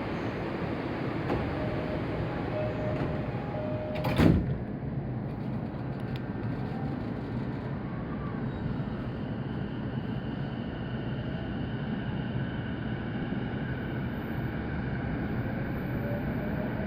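Interior of a Saikyo Line electric commuter train at a station stop. A door chime beeps, the sliding doors shut with a loud thump about four seconds in, and from about eight seconds the traction motors give a rising whine as the train pulls away.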